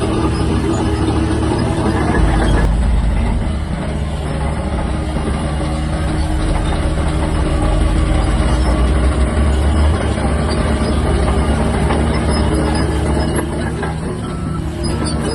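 Large crawler bulldozer's diesel engine running under work, a heavy steady rumble whose note shifts about two and a half seconds in.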